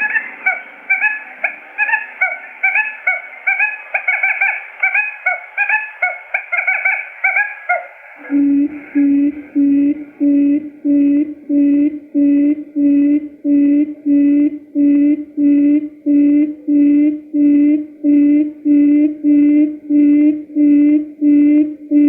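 Quail calls from a trapping lure recording: for about eight seconds, rapid high chirping calls, then a low hooting call repeated steadily, roughly three every two seconds.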